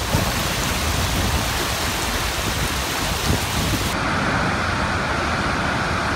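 Wailua Falls roaring at close range: a loud, steady rush of falling water. About four seconds in the sound changes tone.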